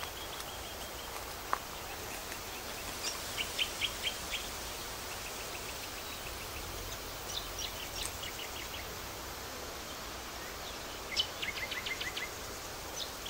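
A bird calling in short runs of quick, repeated high chirps, four times, the last run the loudest, over a steady outdoor background hiss. A single click sounds once, about a second and a half in.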